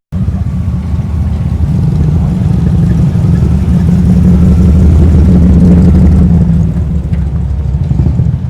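Car engine running with a low rumble that grows louder through the middle and then eases off, like a car driving past.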